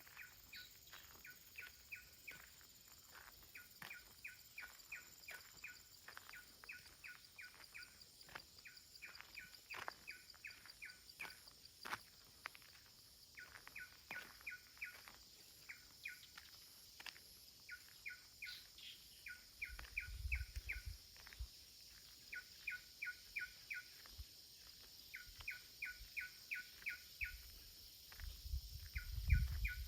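A small songbird calling in repeated quick runs of four to six short chirps, over and over, with scattered footsteps on a path and a couple of low wind rumbles on the microphone near the end.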